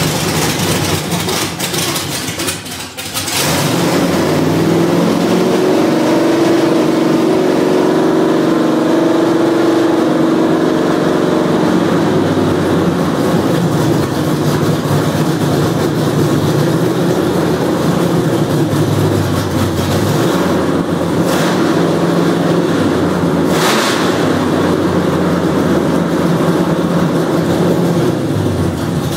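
Freshly built 383 stroker small-block V8 on its first start-up: it turns over and sputters for about three seconds, then catches and runs at a high idle that settles lower after several more seconds, with a couple of short sharp pops later on.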